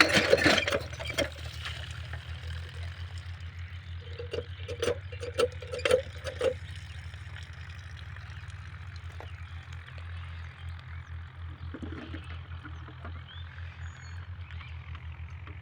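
Small 5 hp single-cylinder diesel engine driving an irrigation water pump, running steadily with a low, fast putt. A few short knocks come about four to seven seconds in.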